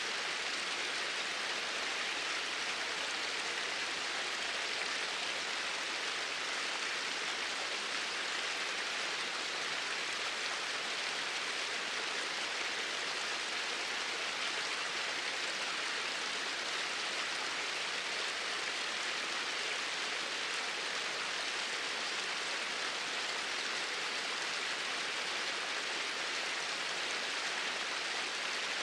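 Flowing water in a steady, even rush with no change in level.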